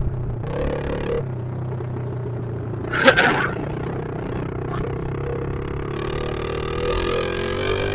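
Pit bike engines running steadily, one revving up with rising pitch near the end, with a brief sharp knock about three seconds in.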